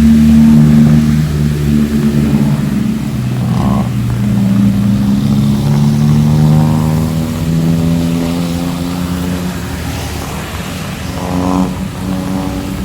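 A road vehicle's engine running close by, its pitch rising slowly as it accelerates.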